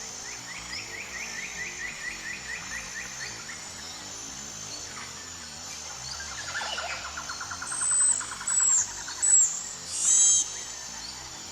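Several wild birds singing. A trill of quick repeated notes opens, a lower and faster trill follows about halfway through, and then come loud high whistled notes that drop at the end, and a short harsh call near the end. A steady high hiss runs underneath.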